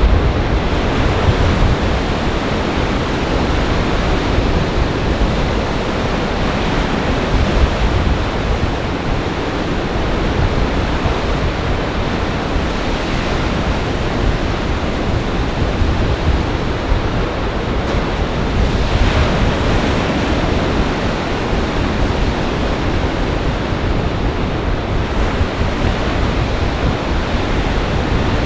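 Storm waves breaking in a gale-force wind, a steady dense rush of surf, with wind buffeting the microphone as a low uneven rumble.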